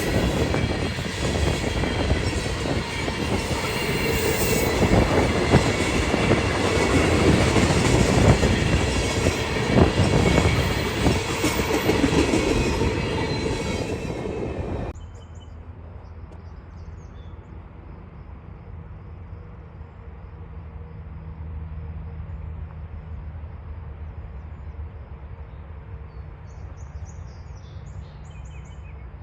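CSX autorack freight train rolling past close by: a loud rumble and rhythmic clatter of wheels over rail joints, with some wheel squeal. About halfway through the train noise stops abruptly, leaving a low steady hum and a few faint chirps near the end.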